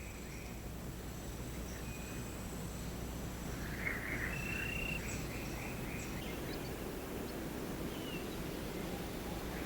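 Rainforest ambience: a steady low background haze with faint, brief high calls of birds or insects now and then, the clearest a longer call about four to six seconds in.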